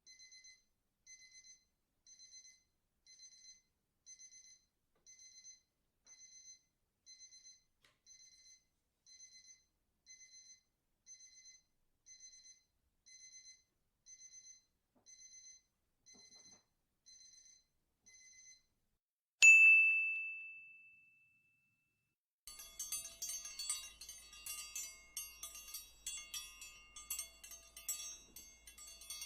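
A run of separate sound effects. First a faint electronic beep repeats steadily, a little over once a second, for about 18 seconds. Then a single bright ding rings out and fades over about two seconds. After a short gap comes a busy jangle of several high ringing tones, like a ringing telephone.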